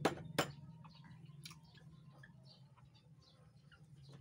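A person chewing raw vegetables, with two sharp clicks in the first half second and then faint scattered clicks and crunches, over a low steady hum.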